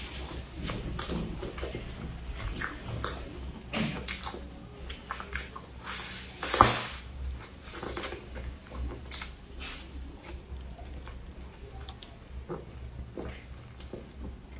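Close-up mouth sounds of a cream puff being bitten and chewed: soft wet chewing with small crunches of the crumbly crust, and one much louder sound about six and a half seconds in.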